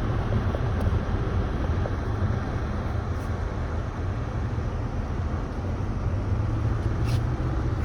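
CSX freight train passing, a steady low rumble of cars rolling on the rails.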